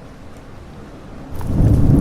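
Rain hissing steadily at a lower level, then a loud low roll of thunder breaks in about a second and a half in.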